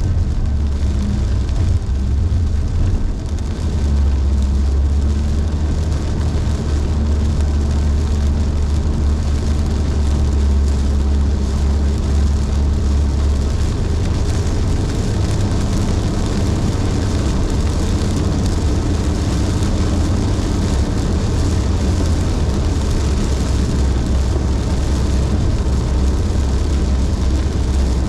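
Car cruising at highway speed, heard from inside: a steady low drone of engine and road noise under an even hiss of tyres on a rain-soaked road.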